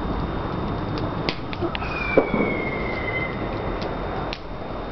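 A few sharp cracks and pops over steady background noise, with a faint whistle falling slowly in pitch about two seconds in.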